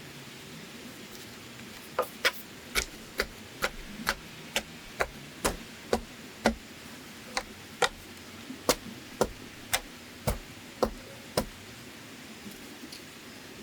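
A hand tool striking bamboo or wood in a steady series of sharp knocks, about two a second, starting about two seconds in and stopping shortly before the end, with a couple of brief pauses.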